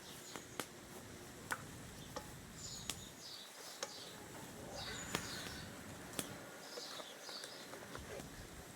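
Small birds chirping in short high phrases three times, over outdoor ambience with scattered sharp clicks and taps.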